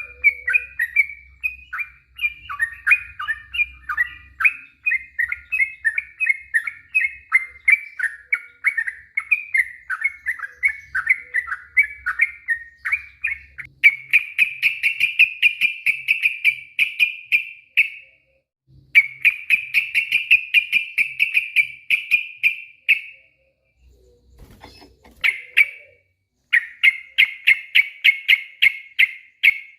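Yellow-vented bulbul (trucuk) singing its long rolling song. It starts with a string of varied chattering notes, and from about halfway through it runs into fast rattling trills in bursts of a few seconds with short breaks between them.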